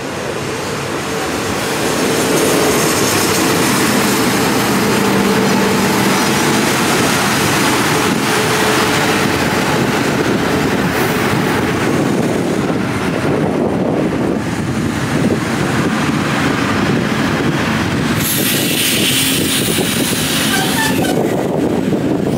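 Diesel railcar express train running in alongside the platform: engine hum and wheel rumble on the rails, growing louder over the first two seconds and then holding steady. A loud hiss rises over it about eighteen seconds in and lasts some three seconds.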